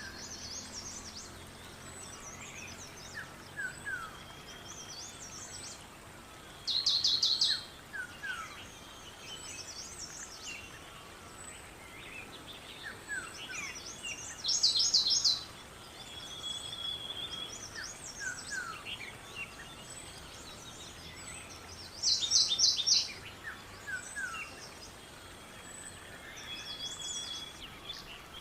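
Several songbirds singing and calling, with scattered short high chirps. One bird sings a loud, rapid trill of repeated high notes lasting about a second, three times, roughly every seven to eight seconds.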